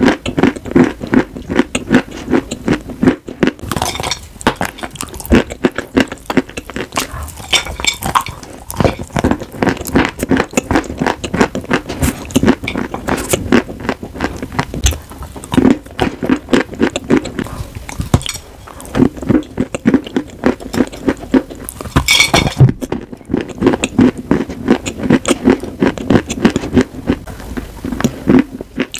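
Close-miked chewing of pieces of chalk and clay with a creamy paste: a dense run of rapid crunches, broken by short pauses a few seconds in and again about three-quarters through.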